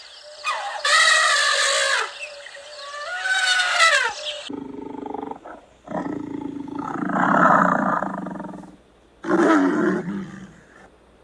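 A big cat roaring and growling in a few long, rough calls, the longest about three seconds. In the first few seconds, before it, a rooster crows.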